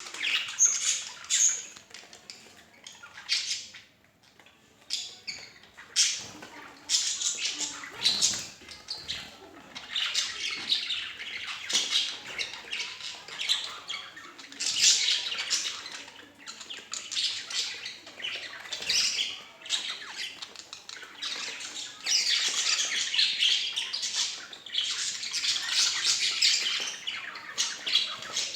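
Budgerigars chattering: a busy, irregular stream of short high chirps and squawks, with a brief lull about four seconds in.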